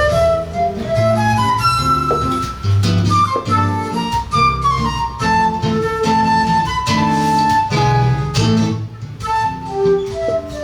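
Flute and seven-string acoustic guitar playing live: the flute carries a melody of long held notes, some sliding between pitches, over plucked guitar chords and bass notes.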